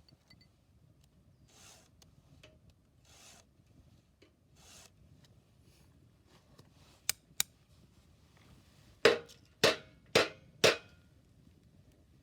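Hand file sharpening a chainsaw chain: soft rasping strokes about every second and a half. Midway come two sharp clicks, then four louder, harder strokes in quick succession near the end.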